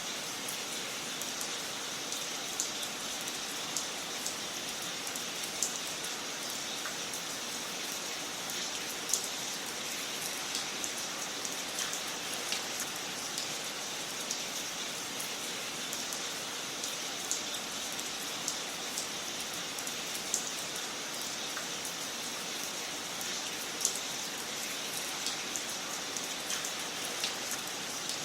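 Wood fire crackling in a fireplace: a steady soft hiss with irregular sharp pops and snaps.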